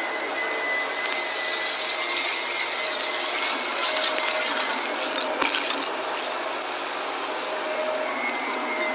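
Shark vacuum cleaner running with a steady whine and hiss, with a cluster of clicking rattles about four to six seconds in as crunchy debris is sucked up the nozzle.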